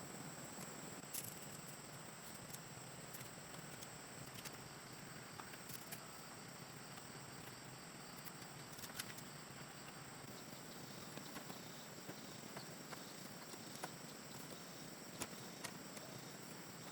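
Quiet rural ambience: a steady high-pitched insect drone, with scattered light clicks and taps.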